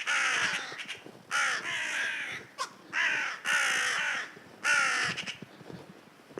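Crows cawing: about six harsh caws in quick succession, each slightly falling in pitch.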